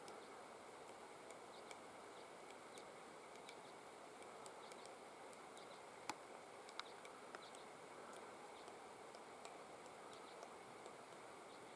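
Faint, irregular sharp ticks and taps from a three-toed woodpecker pecking and flaking bark, with two louder taps about six and seven seconds in.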